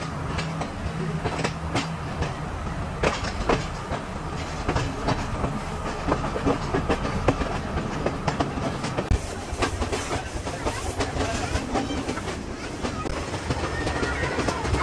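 Passenger train running, heard from an open carriage doorway: a steady rumble with the wheels clattering irregularly over rail joints and points.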